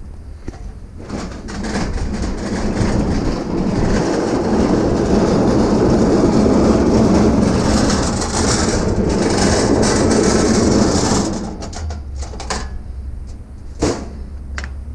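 A vehicle under way: a dense rumble with rattling that builds up from about a second in and eases off after about eleven seconds, settling into a steady low engine hum.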